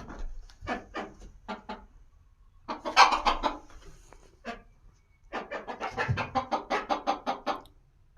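Phoenix chickens clucking in three quick runs of short clucks, about five a second in the longest run, with pauses between the runs.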